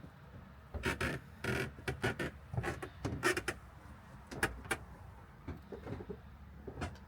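A series of irregular short knocks and clicks, about a dozen, over a low steady hum, thinning out after the first few seconds.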